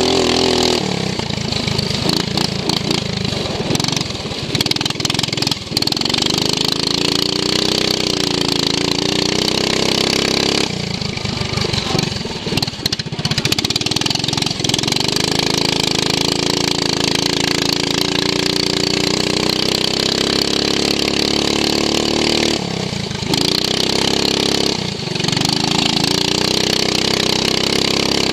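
Racing lawn mower's engine heard from onboard, running hard with its pitch rising and falling as the throttle eases off and opens again several times, over a steady hiss.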